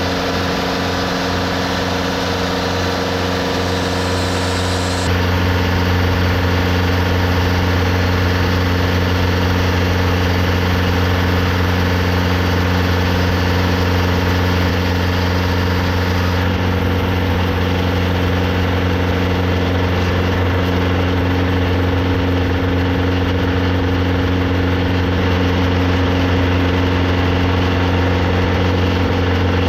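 TimberKing 2520 portable sawmill's engine running steadily, a little louder from about five seconds in.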